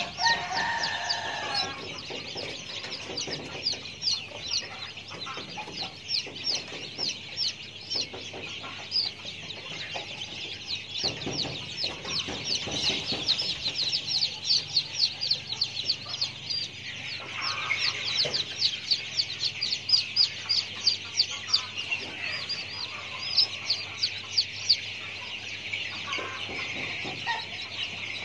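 Birds calling: a rapid, continual stream of short high-pitched chirps that grows louder in the second half, with a single lower call right at the start.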